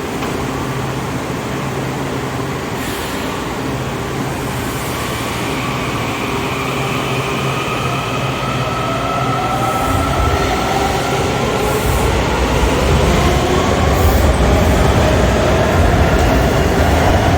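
Kawasaki 7000-series Metrorail subway train pulling out of the station, its traction motors whining in several rising tones as it accelerates. The sound grows steadily louder, with a deeper rumble joining about ten seconds in.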